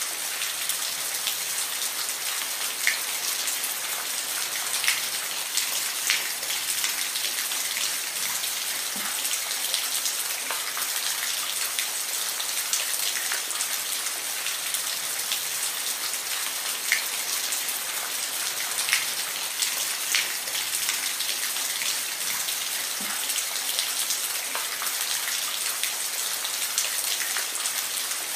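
Steady rain falling, an even hiss with scattered close drops ticking sharply on a surface.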